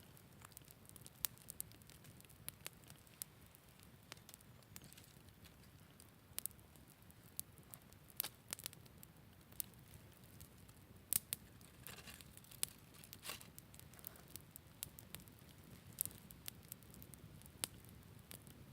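Wood campfire crackling: irregular sharp snaps and pops over a low, steady rumble of the flames, with a few louder snaps about two-thirds of the way through.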